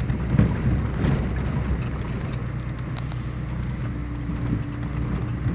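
Engine running steadily while under way, a low hum with wind buffeting the microphone.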